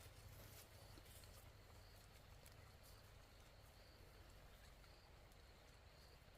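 Near silence: faint outdoor background with a soft high chirp repeating about once a second.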